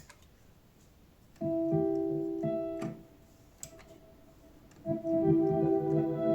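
Electric-piano-like keyboard chords from a Korg Karma played through an Eventide H3000S effects processor. A chord enters about a second and a half in, with notes joining in steps, and cuts off near the three-second mark. After a quiet gap, a second chord starts near five seconds and is still held at the end.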